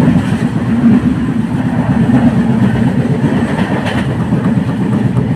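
Moving train heard from on board: a steady, loud rumble of wheels on the rails and the carriage running.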